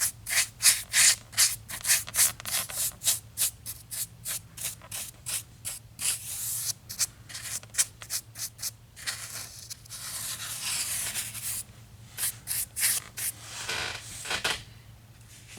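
A paintbrush scrubbing back and forth, brushing a weathering wash onto a model's concrete floor: quick scratchy strokes at about three a second, a steadier scrubbing stretch midway, stopping about a second before the end.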